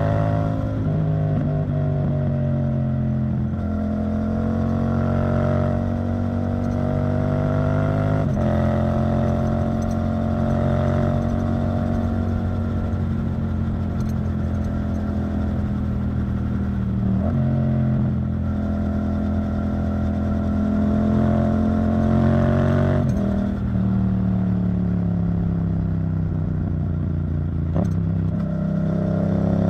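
Yamaha MT-07's parallel-twin engine running through an Arrow Thunder titanium exhaust at fairly steady revs. The note holds its pitch for stretches of several seconds and shifts in steps several times, with brief breaks between.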